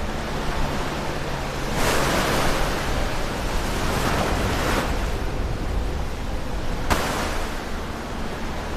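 Ocean waves breaking close to the shore over a steady low rumble of surf. A wave crashes about two seconds in, more surf washes in around four seconds, and there is a sharp splash near seven seconds.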